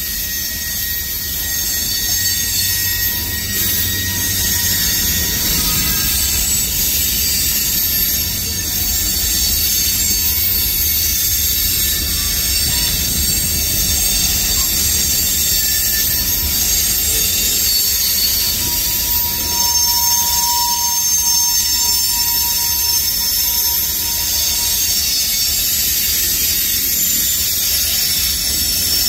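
Slow-moving freight train's cars rolling past with a low rumble and continuous high-pitched squealing of steel wheels and brakes. A clearer, lower squeal stands out for a few seconds about two-thirds of the way through. The squeal is typical of brakes left dragging, which the uploader suspects.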